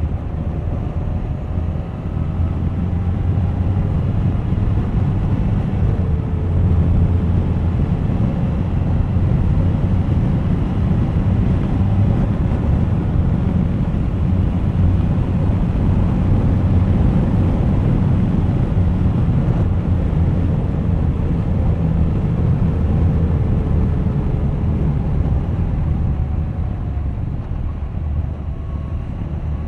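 Suzuki GSX1250FA's inline-four engine running on the road, with wind rushing past. It grows louder about two seconds in, holds steady, and eases off near the end.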